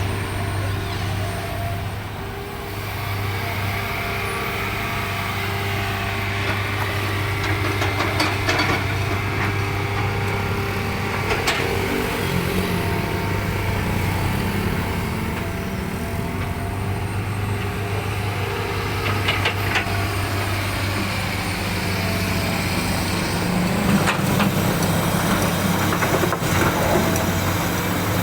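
Hitachi Zaxis 200 hydraulic excavator's diesel engine running steadily, its note rising under load a few times. A few sharp knocks and clanks come through over the engine.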